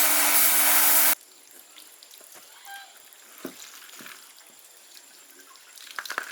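A loud hissing spray over a steady motor hum cuts off suddenly about a second in. A few light clicks and knocks follow.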